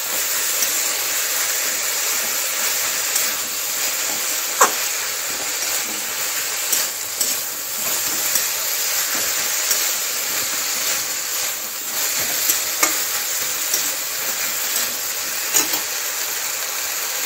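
Thankuni leaves, diced potato and brinjal sizzling in oil in a kadai while a spatula stirs them, with a steady frying hiss. A few sharp clicks of the spatula against the pan stand out.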